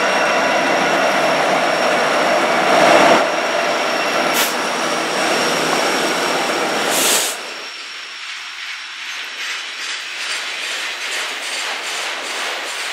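Norfolk Southern EMD SD70ACe diesel locomotives pass close by, their engines running loudly. About seven seconds in, the engine sound drops away as the trailing autorack freight cars roll past, their wheels clicking steadily over the rail joints.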